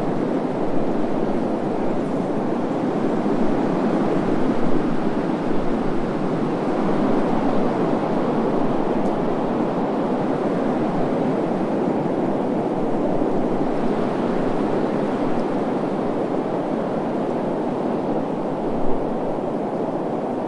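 Wind blowing steadily: an even, low rushing noise with small swells and no pitched tones.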